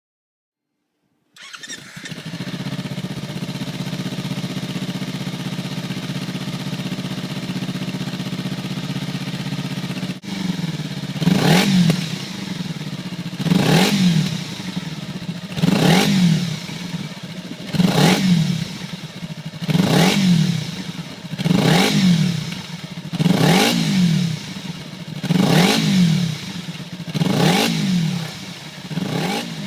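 Kawasaki Ninja 250's parallel-twin engine through an OVER Racing TT-Formula titanium slip-on muffler. It comes in a little over a second in and idles steadily. From about ten seconds in it is blipped about ten times, roughly every two seconds, each rev rising and dropping back to idle quickly.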